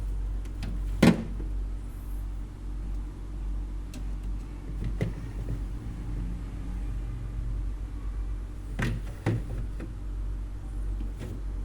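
Knocks and clunks from a small fridge's door being handled, the loudest about a second in and more around five and nine seconds in, over a steady low hum.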